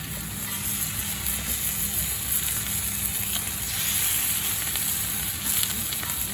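Meat and vegetables sizzling on an iron griddle over a wood fire: a steady hiss with a few small pops.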